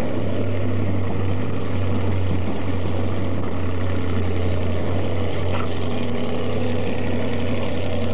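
An engine running steadily with an unchanging low hum, its speed holding constant throughout.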